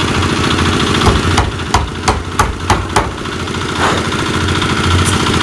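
A small engine running steadily, with a quick run of about seven sharp knocks between one and three seconds in.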